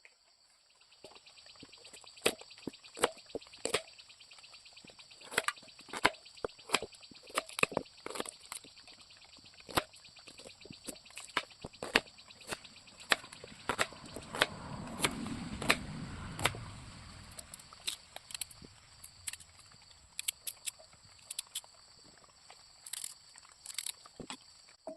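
Knife chopping vegetables on a cutting board: irregular sharp chops, at times in quick runs of several a second.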